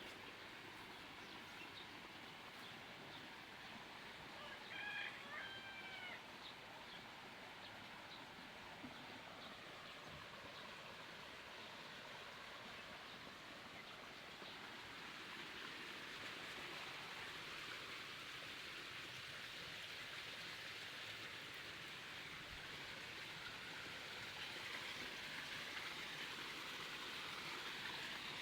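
Steady rush of flowing water, growing slightly louder toward the end, with a bird's short chirping calls about four to six seconds in.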